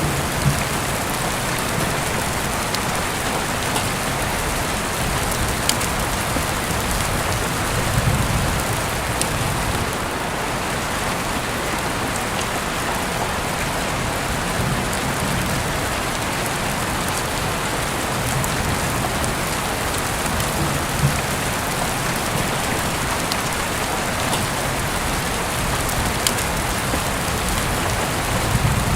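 Steady rain falling on a surface, a continuous even hiss with scattered small sharp ticks from drops and a few soft low swells.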